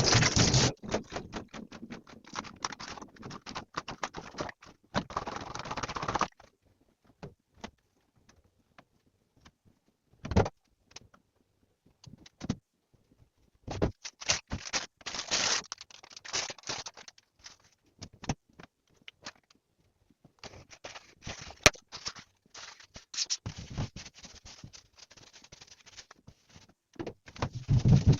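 Running tap water stops within the first second. After that, kitchenware is handled in scattered clinks, rattles and scrapes with quiet pauses between.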